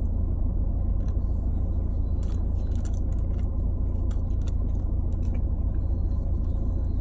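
Steady low rumble of a car idling, heard inside the cabin, with a few faint clicks of chewing.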